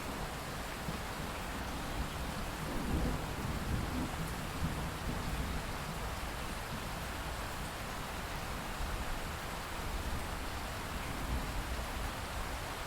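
Steady rain falling, with a low rumble underneath that swells between about three and five seconds in.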